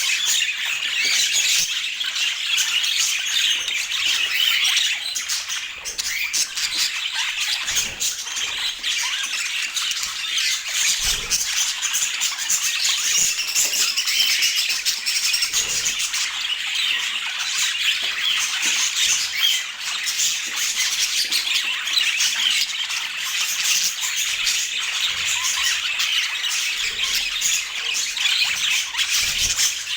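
Budgerigars chattering and warbling nonstop, a busy stream of quick high chirps and squawks, with a few soft knocks now and then.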